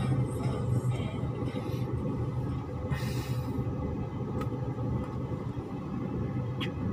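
Car engine running at a steady idle, heard from inside the cabin as an even low hum.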